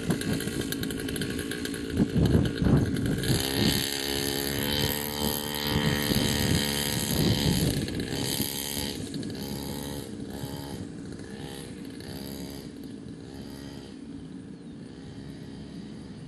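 40cc two-stroke mini dirt bike engine revving up and down as it is ridden, its pitch rising and falling several times and growing fainter near the end.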